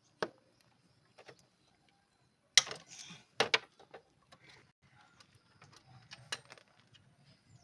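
Hand tools and metal parts clicking and knocking as they are handled: scattered sharp clicks, the loudest about two and a half and three and a half seconds in.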